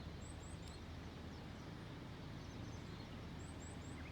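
Steady low rumbling background noise with small birds chirping: a quick run of short, high rising chirps about a third of a second in, and another near the end.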